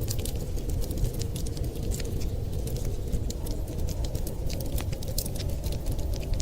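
Wood fire crackling, with many quick, irregular pops and snaps, over a steady low rumble of storm wind.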